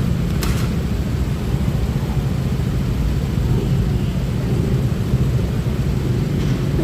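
Honda Click 125i scooter's single-cylinder engine running steadily while riding in traffic, under a heavy, even low rumble.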